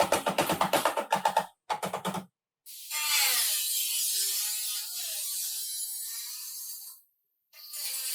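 Rapid ratchet-like clicking, about ten clicks a second, for a second and a half, with a short second burst. Then a steady hiss with a wavering tone from a workshop tool, which stops abruptly and starts again near the end.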